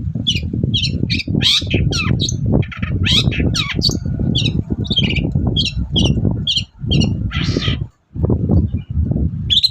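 Long-tailed shrike (cendet) singing a rapid string of short, harsh, squawky notes, several a second, over a heavy low rumbling noise.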